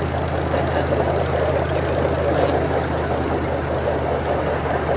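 A train running steadily, heard from on board: a constant low engine hum with rough rattling noise over it.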